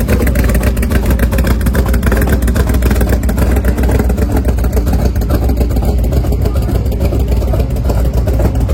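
A classic show car's engine rumbling steadily as the car pulls out, with a deep, pulsing exhaust note.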